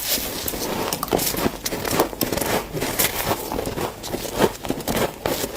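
Dry, powdery deep-freezer frost crunching and squeaking as hands scrape and crush it: a dense, irregular run of crackles.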